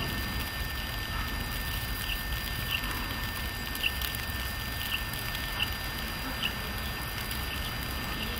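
A small bird giving short, high chip calls about once a second, over a steady low rumble.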